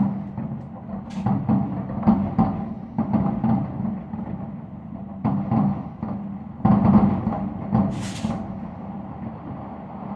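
Fireworks shells bursting in an irregular string of booms, some in quick pairs, with a hissing crackle near the end, over a steady low hum.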